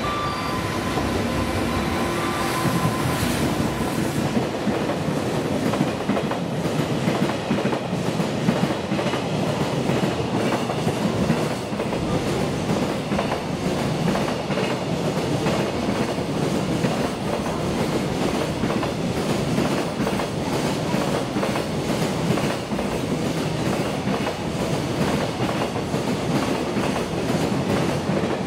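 JR Freight EF210 electric locomotive and its long train of container wagons passing close by at speed, with a continuous rolling rumble and clickety-clack of steel wheels over rail joints.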